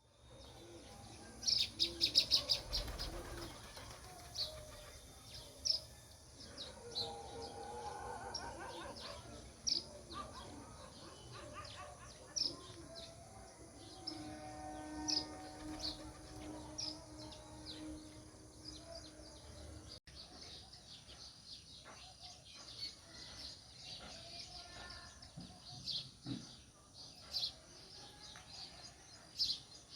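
House sparrows chirping: short, sharp chirps come irregularly throughout, with a quick, loud run of them about two seconds in.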